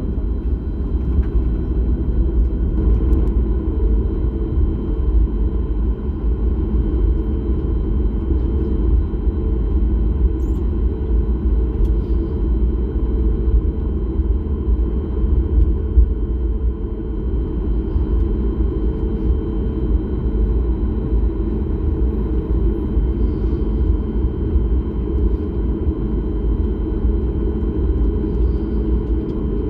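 Jet airliner cabin noise: a steady, even rumble of the engines and airflow heard from inside the cabin, with a faint steady high tone over it.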